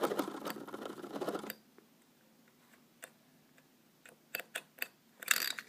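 A fake engine's buzzing, rattling revving noise cuts off abruptly about a second and a half in, when the device shorts out. It is followed by a few scattered clicks and knocks, and a brief burst of handling noise near the end.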